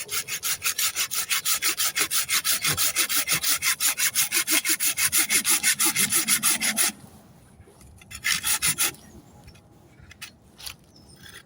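Hand saw cutting through a branch with fast, even back-and-forth strokes. It stops about seven seconds in, saws briefly again a second later, and then there are only a few light knocks.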